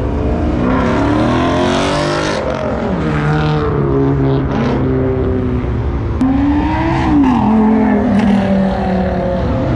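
Supercar engines revving and driving past, one of them a Lamborghini. Their pitch holds steady, climbs and drops again.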